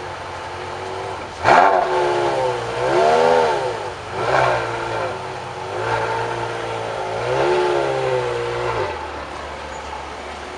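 Supercar engine revved repeatedly: a sharp, loud first rev about a second and a half in, then four more blips that rise and fall in pitch, settling back to idle near the end.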